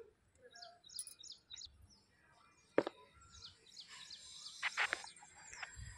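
Small birds chirping faintly, in short high calls. A single sharp click about three seconds in, and a brief faint rustle a little before the end.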